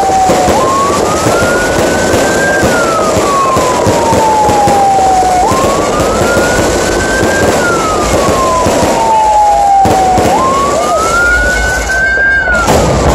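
Fireworks crackling and popping densely throughout, with a louder bang near the end. Over it a siren wails, rising and then falling in pitch about every five seconds, three times.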